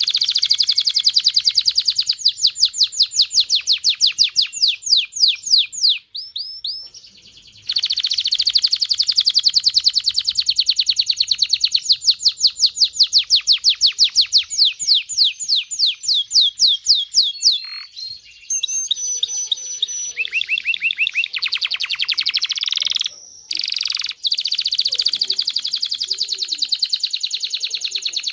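Canary singing a long song made of fast trills of rapidly repeated high notes, one trill running into the next, with a few short breaks.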